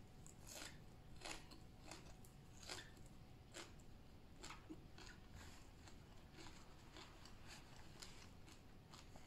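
A person chewing a mouthful of papaya salad and raw vegetables with her mouth open. It comes as faint, irregular crunches, roughly one a second.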